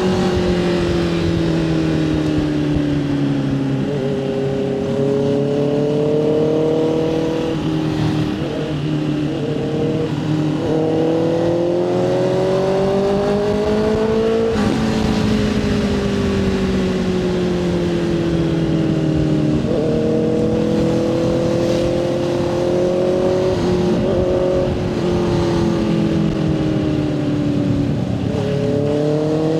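Motorcycle engine pulling while riding, its pitch climbing under acceleration and falling back as the throttle eases. Its note breaks sharply at gear changes several times, over a steady rush of wind noise.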